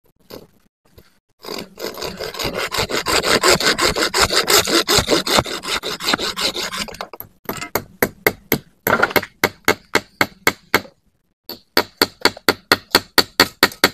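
Wood being sawn by hand: a fast, dense run of saw strokes for about five seconds, then, after a short break, slower, evenly spaced strokes at about three a second.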